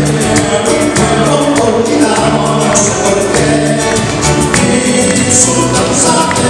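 Live trío band music through a sound system: a bass line in held notes under quick, steady percussion ticks.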